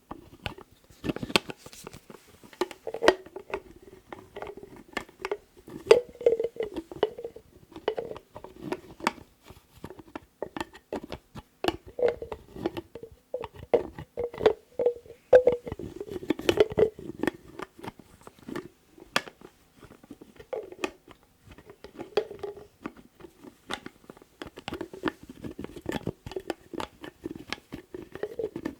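Lids being tapped, clicked and scraped by hand: a steady stream of irregular sharp taps and clicks, many of them leaving a short hollow ring.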